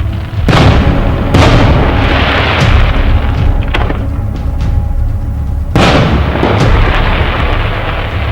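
Fireworks shells bursting with loud booms, about half a second and a second and a half in and again near six seconds, the second followed by a couple of seconds of crackling. Music plays underneath.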